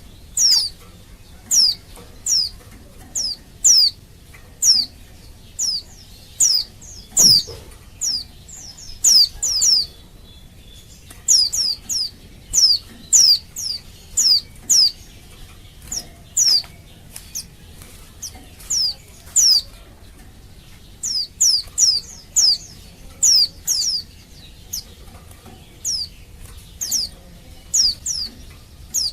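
Female white-eye (pleci) giving a steady series of short, high call notes that slur downward, one or two a second, often in quick pairs. This is the excited call of a female in breeding condition calling to males, used to provoke male white-eyes into answering.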